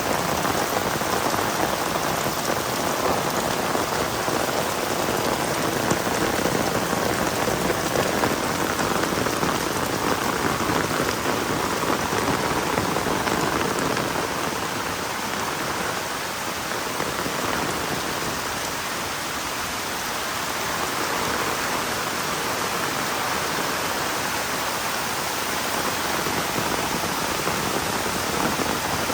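Heavy rain falling steadily, a dense patter on the ground, easing slightly for a few seconds midway before picking up again.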